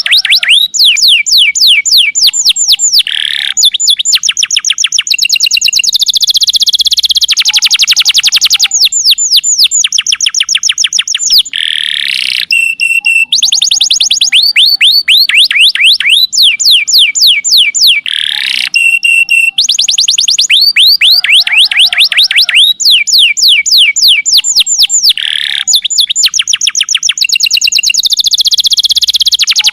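Domestic canary singing without a break: fast runs of the same whistled note repeated many times a second, switching to a new run at a different pitch every second or two.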